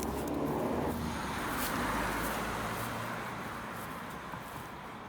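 A motor vehicle passing by: a low engine hum and tyre noise swell over the first two seconds, then fade away.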